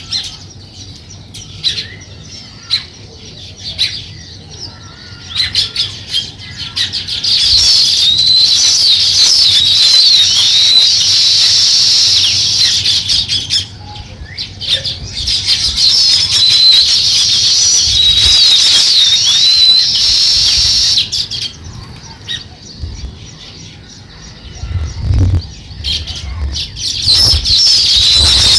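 Flock of small birds chirping in a dense, high-pitched chattering chorus that swells loud for long stretches and falls back between them, with fluttering and a few low thumps near the end.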